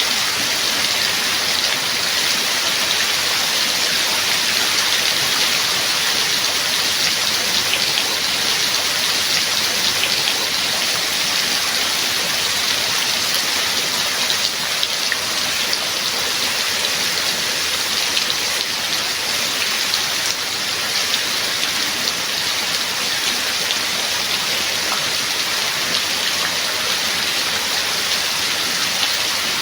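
Steady heavy rain: a dense, even hiss of falling rain with fine taps of individual drops.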